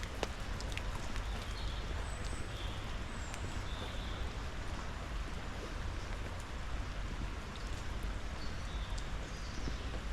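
Steady rush of river water and rain, with scattered drops ticking and a deep rumble underneath. Faint short high chirps come now and then.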